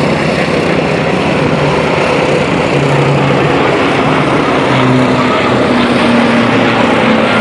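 A propeller aircraft's piston engine running steadily under a dense wash of noise, its hum shifting a little higher about halfway through.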